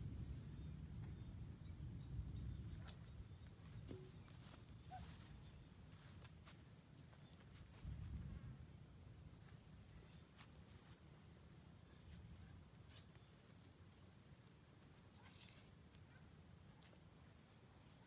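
Quiet outdoor ambience: a faint, steady high-pitched hum throughout, low rumbles in the first few seconds and again about eight seconds in, and a few faint clicks.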